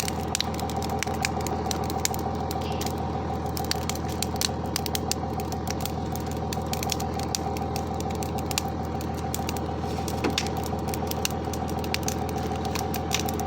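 Large bonfire crackling, with irregular sharp pops and snaps of burning wood over a steady hum.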